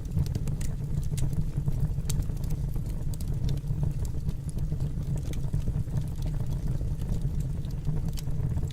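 Wood fire burning in a fireplace: a steady low roar with irregular sharp crackles and pops.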